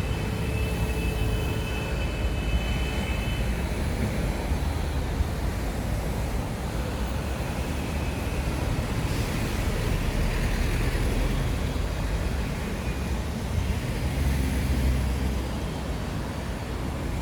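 City street traffic noise: a steady low rumble of passing vehicles. A faint steady tone sits over it for the first few seconds.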